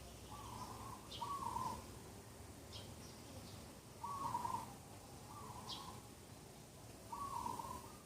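Birds calling in the morning. One bird repeats a low call, often given twice in quick succession, every few seconds. Short high chirps from another bird come in between.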